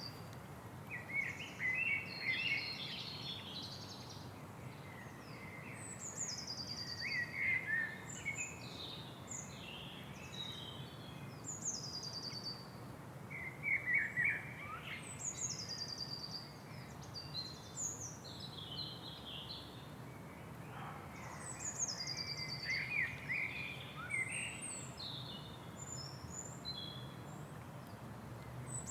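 Several songbirds singing and chirping. One repeats a short, high, falling trill every five or six seconds, among scattered lower chirps and warbles, over a steady low background noise.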